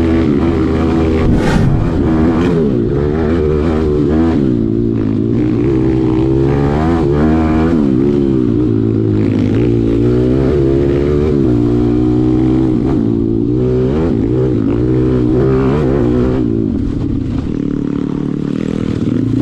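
Malcor XM 160 pit bike's 160 cc single-cylinder engine ridden hard, the revs climbing and dropping again and again as the throttle is opened and eased.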